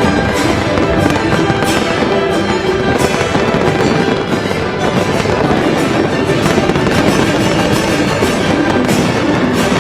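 Aerial fireworks shells bursting in quick succession, several cracks and booms a second, over loud accompanying music.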